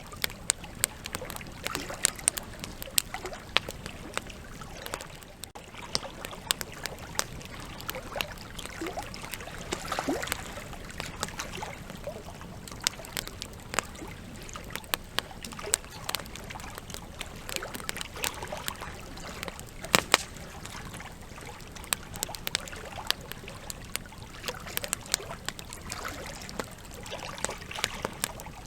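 Campfire burning with a steady hiss and frequent irregular crackles and sharp pops from the logs, one especially loud pop about two-thirds of the way through.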